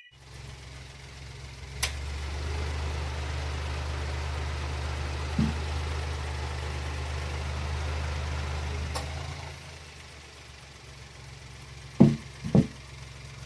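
Suzuki Alto Works HA36S's 660 cc turbocharged three-cylinder engine idling steadily, getting quieter about two-thirds of the way through. A few sharp clicks come through it, then two loud knocks close together near the end.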